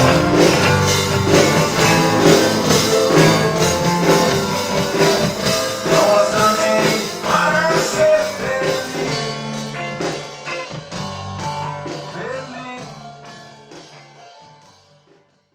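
Rock band playing a song with singing over a steady drum beat. The sound fades out gradually over the last six seconds or so.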